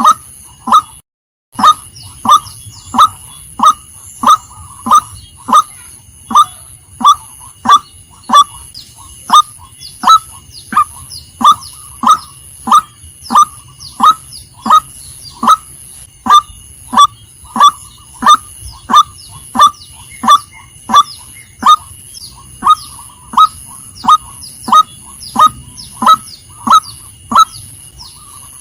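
Female white-breasted waterhen calling: short clucking notes repeated evenly, about three every two seconds, with a brief dropout about a second in. A steady high-pitched buzz sits in the background.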